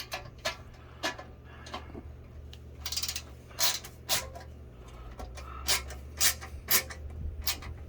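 A screw being tightened by hand on the metal leg of a sewing-machine stand: a run of irregular sharp clicks and scrapes from the tool and metal parts, about one every half second, over a low steady hum.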